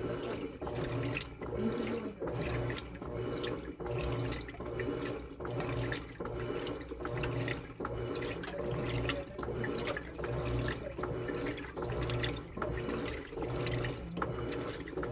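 Electrolux Turbo Economia 8.5 kg (LT09E) top-loading washing machine agitating a load: water sloshing in a steady back-and-forth rhythm, a little more than one stroke a second.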